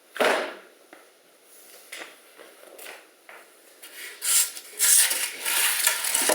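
Handling noises: a knock about a quarter second in, small clicks and rustles, then a stretch of loud scraping and rubbing from about four seconds on.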